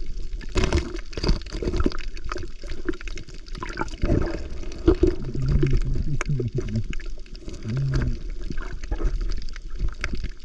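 Seawater sloshing and gurgling around the microphone while diving or swimming, with irregular splashes and a few short, muffled, low hums.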